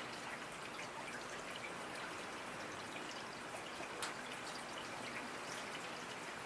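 Steady rainfall, an even hiss with many scattered drop ticks and one sharper drop about four seconds in.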